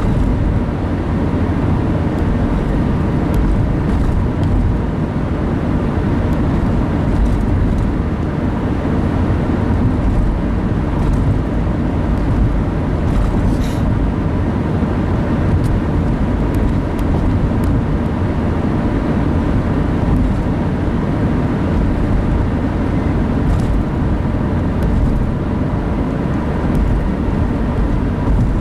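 Steady road noise of a car driving at speed, heard from inside the cabin: a constant low tyre and engine rumble.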